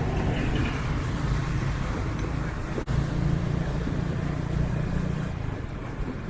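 Steady low rumble of a motor vehicle's engine and road noise, with a brief dropout in the sound just before three seconds in.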